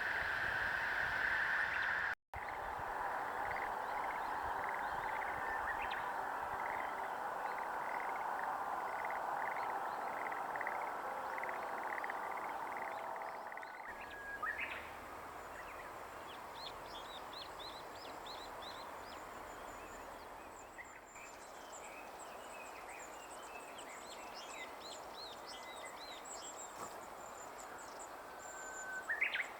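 Wild birds calling outdoors: repeated short call notes over a steady background chorus, then, about halfway through, higher, thinner chirps and trills.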